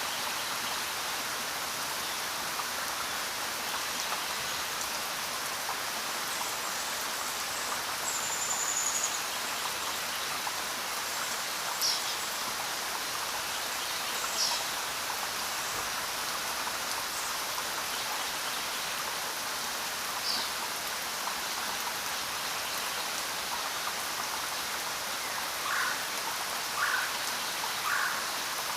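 Steady rain falling, an even hiss, with a few brief high chirps scattered through and three lower ones near the end.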